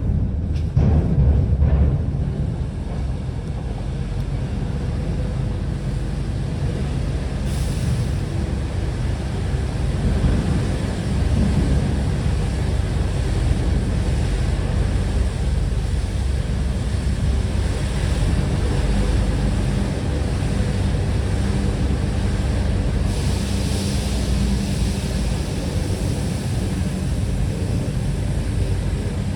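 Steady low engine rumble under a broad hiss of wind or water noise, with the hiss growing stronger in the last few seconds.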